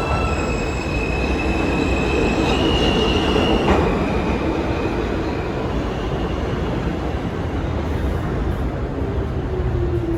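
New York City subway train running on steel rails, with a steady rumble. High wheel squeal rings for the first few seconds and stops abruptly a little under four seconds in.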